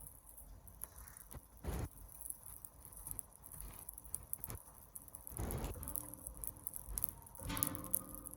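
Campfire crackling, with scattered small sharp pops. A couple of short low rushing noises come through, and a brief pitched sound near the end.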